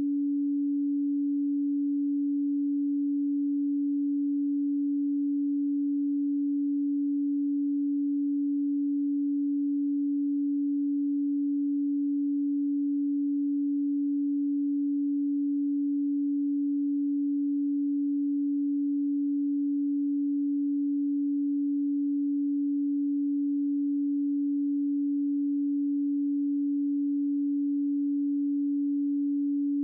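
A pure 285 Hz sine tone, held perfectly steady at one pitch and level.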